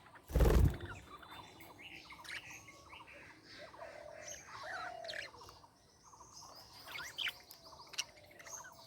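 Budgerigars chattering: a busy mix of short chirps and warbled notes. A brief loud rustling thump comes about half a second in.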